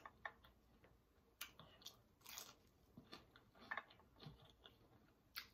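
Faint chewing and crunching of food, heard as a scattering of small crunches and wet mouth clicks.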